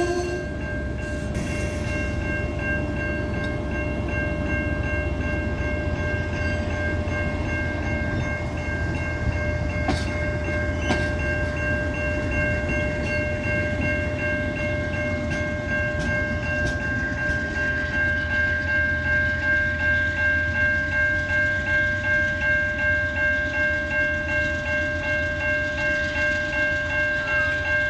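Amtrak passenger train rolling past with a low rumble and occasional wheel clicks. Over it a bell rings steadily, pulsing about twice a second, heard more plainly in the second half as the rumble eases.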